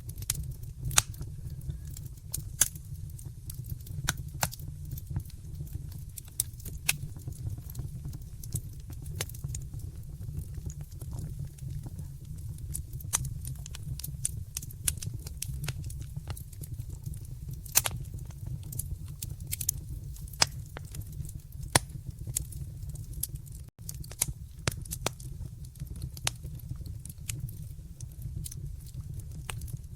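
Wood fire burning in a fireplace: irregular sharp crackles and pops over a steady low rumble, with a split-second dropout about two-thirds of the way through.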